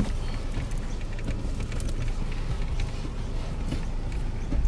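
Peugeot 307's engine idling, a steady low rumble heard inside the cabin, with a few faint clicks and a short knock near the end.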